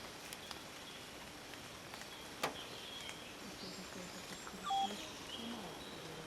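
Outdoor forest ambience: a steady low hiss of background noise with a few short calls, and a single sharp click about two and a half seconds in.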